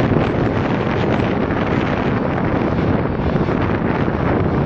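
Freight train tank cars rolling past, a steady, unbroken rumble of steel wheels on the rails.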